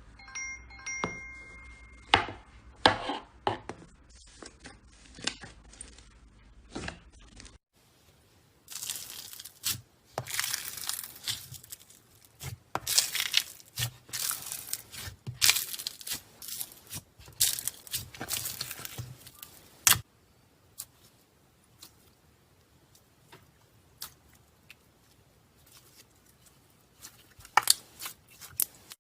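Slime being squeezed, stretched and poked, giving irregular sticky crackles, pops and sharp clicks, denser and louder in the middle. A brief chime-like tone sounds near the start.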